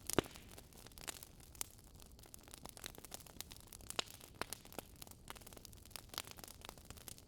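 Wood fire crackling: irregular pops and snaps over a soft hiss, the loudest pop just after the start.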